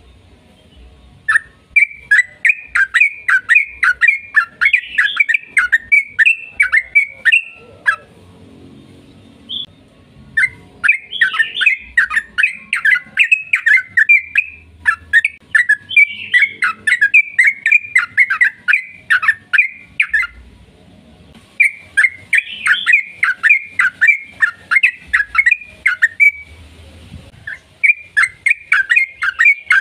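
Yellow-vented bulbul (trucukan) singing a long, rapid chattering song of quick, loud notes, in several bouts of a few to ten seconds with short pauses between them.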